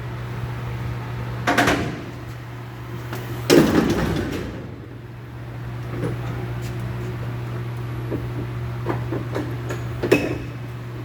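Three knocks over a steady low hum. The loudest comes about three and a half seconds in, and the last near the end.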